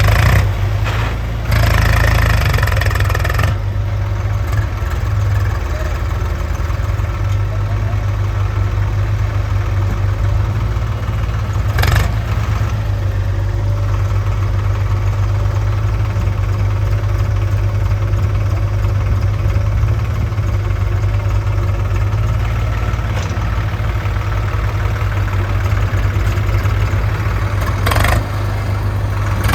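Heavy diesel engine running steadily at low revs, with a few short, louder bursts of clatter and noise about two seconds in, around the middle and near the end.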